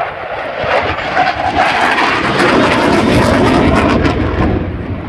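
Aircraft flying past overhead with loud, crackling engine noise that builds to a peak and eases off near the end.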